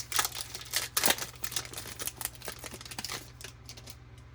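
Crinkling and tearing of a foil trading-card pack wrapper being opened: a quick run of sharp crackles that dies away about three seconds in.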